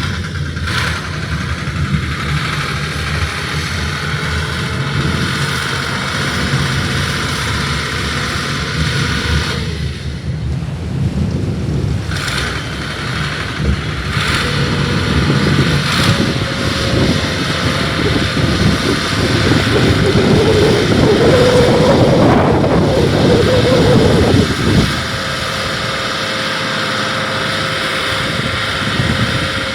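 Engine running steadily, with abrupt changes in the sound; about two-thirds of the way through a higher tone rises and grows louder, then cuts off suddenly.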